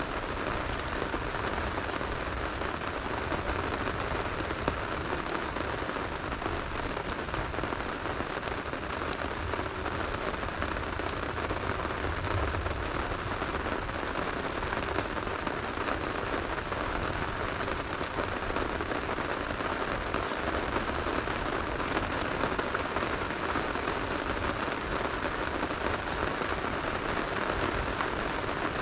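Steady rain falling, an even hiss without pauses, with a few faint sharp clicks here and there.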